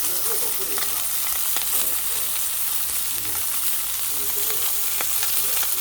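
Rockfish cooking, with a steady sizzle and scattered sharp crackles of fat spitting.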